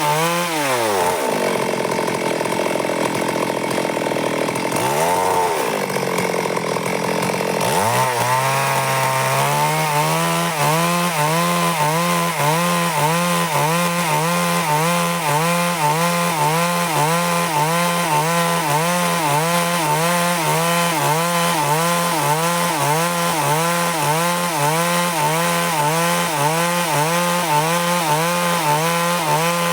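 Stihl MS 382 two-stroke chainsaw cutting through wood at high revs. Its pitch sags and recovers a few times in the first eight seconds, then holds steady and high with a regular waver.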